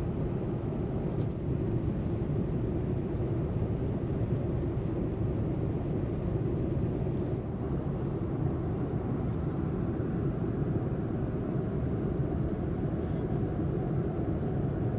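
Cabin noise inside a Boeing 787-9 airliner: a steady low rumble of engines and rushing air.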